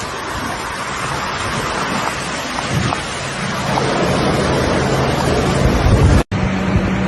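Rushing floodwater with wind buffeting the microphone. A low engine hum runs underneath. The sound cuts out for a moment near the end, and the hum comes back at a higher pitch.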